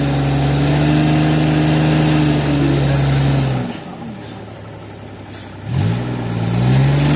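An engine revs up and holds a steady high speed, then drops back about halfway through and revs up again near the end.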